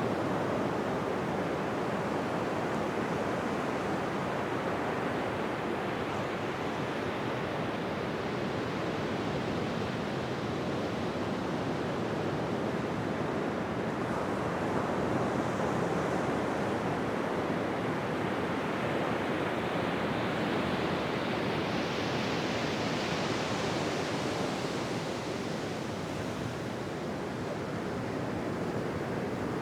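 Ocean surf washing on a beach: a steady rushing hiss. Past the middle a wave breaks, and the hiss grows brighter for a few seconds before easing off.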